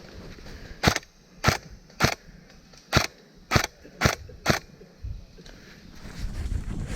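An airsoft gun firing seven single shots in quick succession, each a sharp crack about half a second to a second apart. A low muffled rumble follows near the end.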